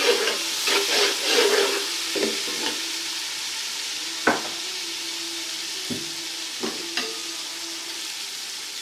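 Onions and ginger-garlic paste sizzling in hot ghee while a spoon stirs them, scraping and knocking against the pan. The stirring is busy for the first couple of seconds, then comes as a few separate knocks. This is the paste being fried to cook off the raw taste of the garlic.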